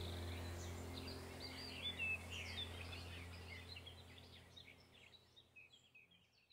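Small birds chirping over a steady low hum, the whole fading out toward the end.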